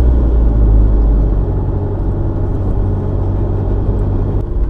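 Car engine and road noise heard from inside the moving car's cabin: a steady low rumble that eases slightly about a second and a half in.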